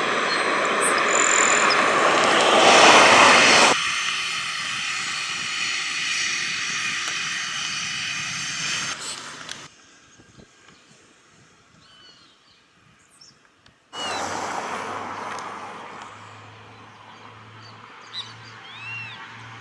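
Aircraft engine noise, loud and steady, broken off by sudden cuts. In a quieter stretch in the middle, birds chirp.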